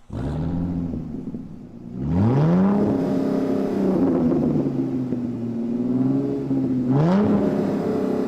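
A vehicle engine running, revving up in a rising glide about two seconds in and again near the end, and holding a steady pitch in between.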